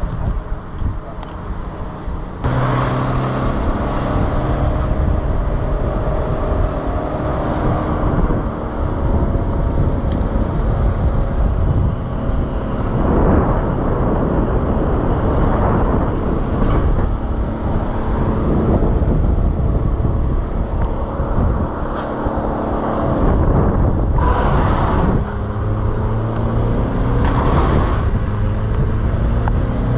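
An engine starts running about two seconds in and keeps running steadily under rough noise, its pitch shifting a few times.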